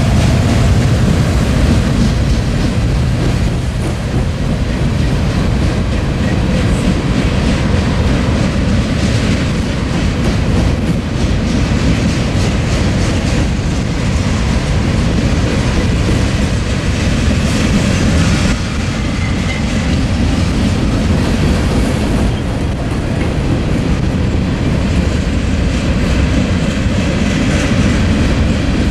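Freight train of covered hoppers, boxcars and tank cars rolling past close by: a loud, steady rumble of steel wheels on rail, with clicks as the wheels cross the track joints.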